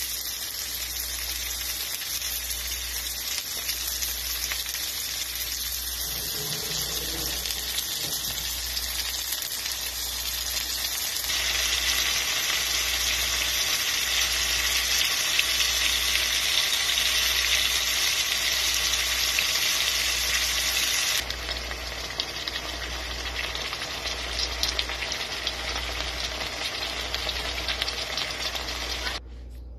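Ground pork and beef with diced tomatoes, onions and potato sizzling as they fry in a pan: a steady hiss. It gets louder about a third of the way in, drops back about two-thirds of the way in, and cuts off abruptly near the end.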